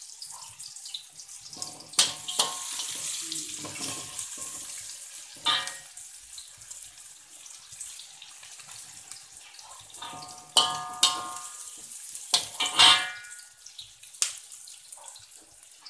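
Sliced shallots sizzling in hot oil in a steel wok, with a steady frying hiss. A metal spatula scrapes and clanks against the wok several times, loudest a little after ten seconds in and again near thirteen seconds, some strikes ringing briefly.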